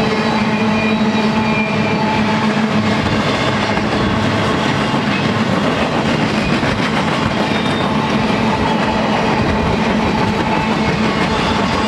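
Empty double-stack intermodal well cars of a freight train rolling steadily past on steel wheels, a continuous rumble with a steady low hum under it.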